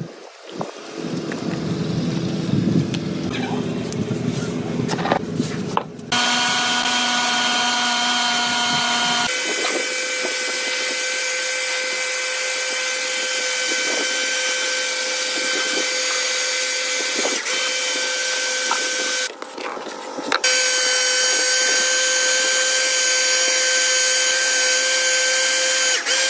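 Electric power tool motor running at a steady whine. It starts about six seconds in, shifts pitch near nine seconds, cuts out briefly near nineteen seconds and starts again.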